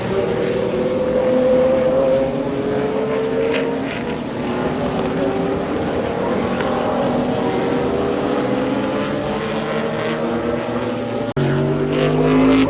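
Race car engines accelerating hard, the pitch climbing through the revs, dropping at upshifts and climbing again. About eleven seconds in the sound cuts abruptly to another car's engine at full throttle.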